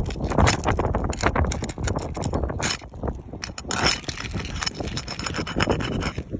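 Asphalt roof shingles scraping and rubbing against each other in irregular strokes and clicks as they are worked loose and pulled out during a shingle repair.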